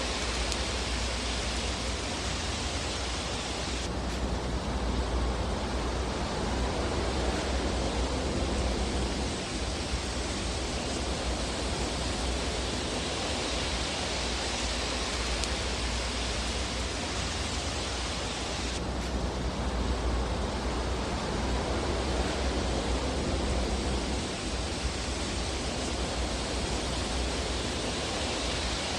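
Fire in a fireplace, a steady rushing hiss over a low rumble, with no distinct crackles standing out.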